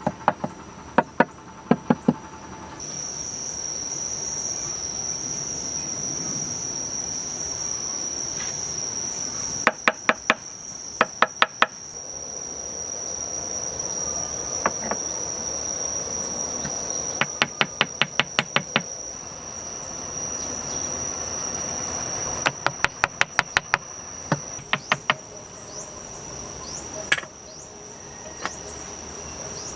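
Steady high-pitched insect trill, with several bursts of rapid knocks, four to eight sharp strikes at a time, at about four a second.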